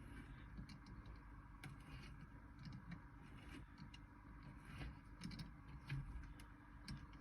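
Faint, scattered small clicks and taps of hex (Allen) wrenches being tried and handled at the avionics panel, over a quiet steady background.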